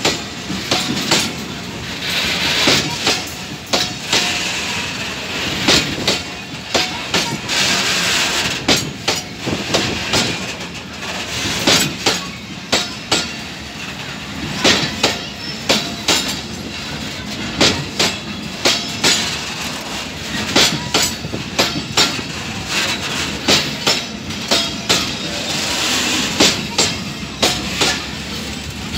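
Long train of oil tank wagons rolling past close by, steel wheels clicking over the rail joints in a repeated clickety-clack.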